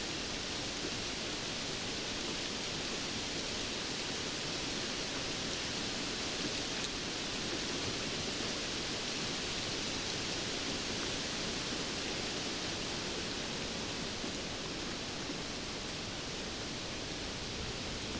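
Steady rainfall, an even continuous hiss with no distinct drops, thunder or changes.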